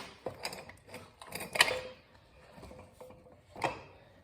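Metal clicks and rattles of a motorcycle drive chain and rear-wheel parts being handled, with a sharp clack about one and a half seconds in and another near the end.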